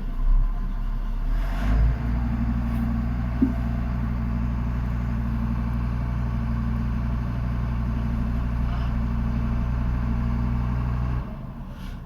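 Hino crane truck's diesel engine running; its note steps up about two seconds in, holds steady for around nine seconds, then drops back near the end. A single short click sounds a few seconds in.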